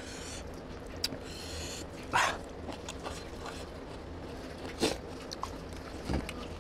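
Close-up chewing and lip-smacking of someone eating rice and mutton curry by hand, with a few short, sharper mouth sounds about two seconds in and near five seconds.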